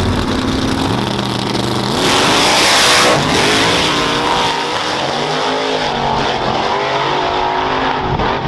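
Drag-racing vehicle engine accelerating hard, its revs rising in steps. A loud rush of noise comes about two seconds in, lasts about a second, and is the loudest part.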